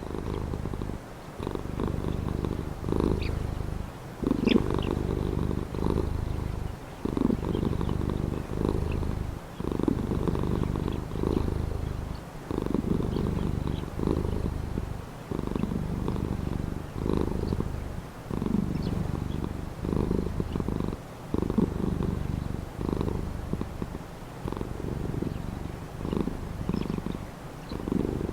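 Domestic cat purring close up, a low, steady rumble that swells and eases with each breath, about every one and a half to two seconds.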